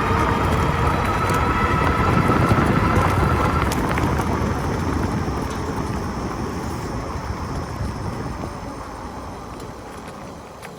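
Wind rushing over the microphone while riding an e-bike, with a thin steady whine through the first four seconds; the rush fades gradually toward the end.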